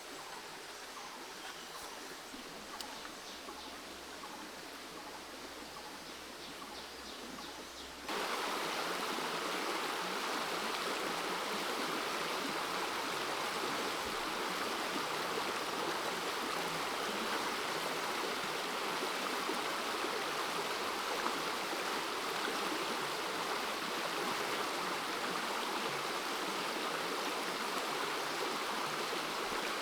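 Forest creek water running over rocks, a steady rushing. About eight seconds in it suddenly gets much louder and fuller.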